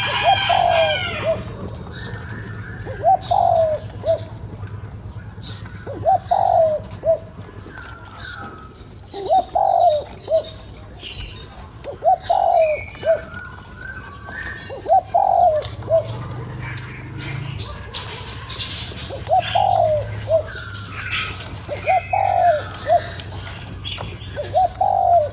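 Spotted dove cooing: a short phrase of several notes, repeated about every three seconds, with smaller birds chirping faintly higher up.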